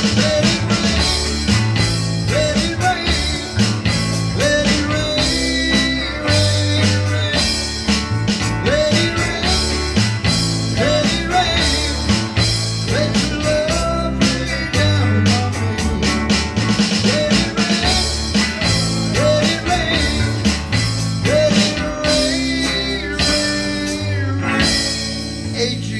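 Live rock music with guitar over a steady beat, dropping in level and thinning out near the end.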